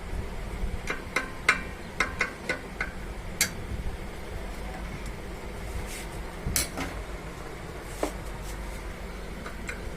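Light clicks and knocks of small tools and metal parts being handled on a workbench during an amplifier repair: a quick cluster in the first few seconds, a couple more in the middle and one near the end. A steady low hum runs underneath.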